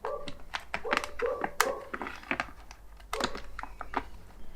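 Irregular clicks and light knocks, interspersed with a few short squeaks, as a capacitor and the electric box of a Kranzle pressure washer motor are handled and fitted back in place.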